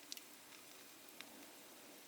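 Wood campfire crackling faintly: a few sharp pops, two just after the start and one about a second later, over a low hiss.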